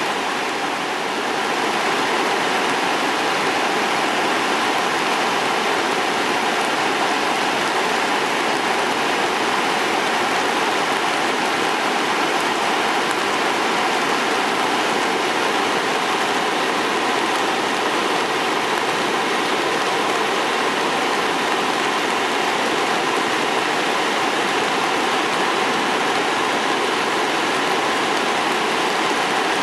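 Steady rushing roar of Sogi Falls on the Sendai River, swollen after continuous rain, with water pouring over the falls at high flow.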